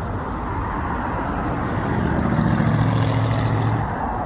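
A car engine running as it passes close by, swelling about halfway through and fading again near the end, over a steady outdoor din.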